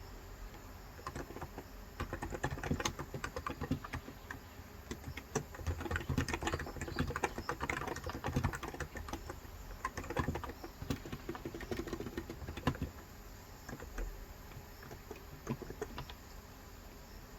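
Typing on a Cox Endeavour electro-capacitive tenkeyless keyboard with light 35 g switches: runs of quick keystrokes start about a second in, with short pauses, and thin out near the end.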